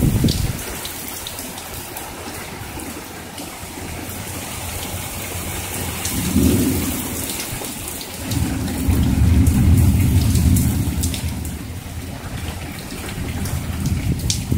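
Heavy summer rain pouring steadily, with drops ticking close by. Thunder rumbles briefly a little before halfway, then rolls longer and louder just after.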